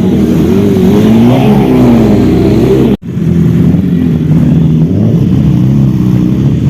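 Superbike engines revving, the pitch rising and falling with each blip of the throttle. About three seconds in the sound cuts off abruptly and switches to an engine running at a steadier speed.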